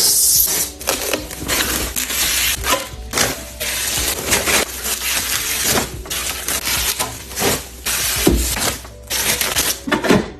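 Dense, continuous crinkling and crackling of packaging being handled while a fridge is restocked, with many small clicks and knocks.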